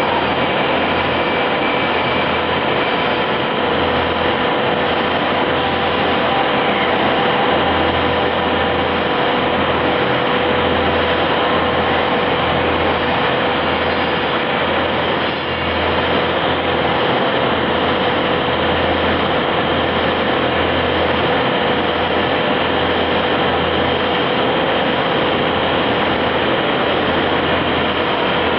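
CNC machine running: a steady, loud mechanical noise with a constant whine held in it.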